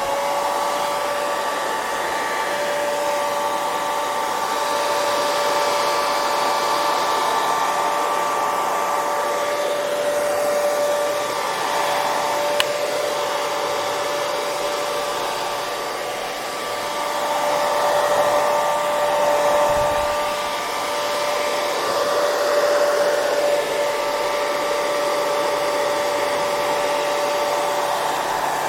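Hair dryer running steadily: an even rush of blown air over a motor whine of a few held tones, the level swelling and easing slightly. One faint click sounds near the middle.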